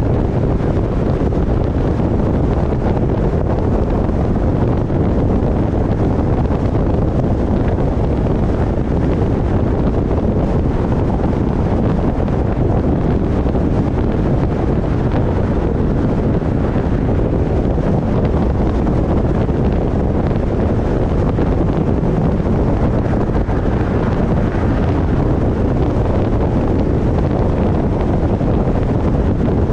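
Wind buffeting a roof-mounted GoPro's microphone on a moving car: a steady, loud, low rumble.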